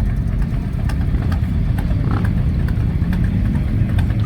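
Motorcycle engines idling steadily, with a few light clicks over the low engine sound.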